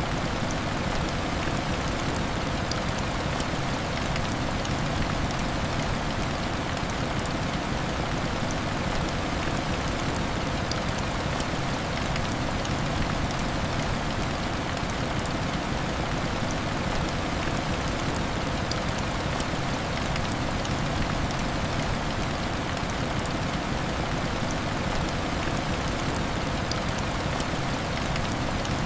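Heavy rain falling steadily, a dense, even patter of drops hitting a window, with no change in strength.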